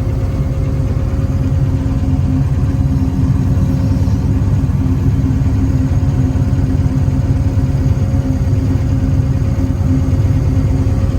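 The engine of a track-watering vehicle running steadily at low speed in first gear, heard from the driver's seat. It is an even drone with a steady hum and no change in pitch.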